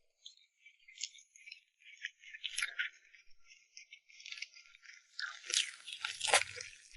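Close-miked eating sounds: a run of wet chewing and mouth clicks that gets busier and louder near the end, peaking in a louder bite or crunch.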